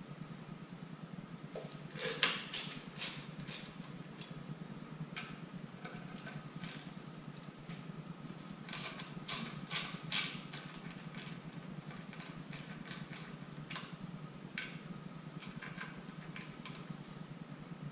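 Hand tools working the bolts of a motorcycle's outer clutch cover: short, sharp metallic clicks in bunches, loudest about two seconds in and again around nine to ten seconds, over a steady low hum.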